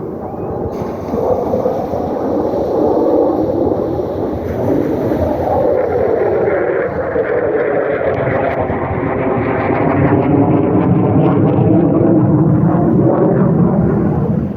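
Air Force Thunderbirds' F-16 fighter jets flying past, loud, the engine tone sliding down in pitch as they go by, with wind on the microphone.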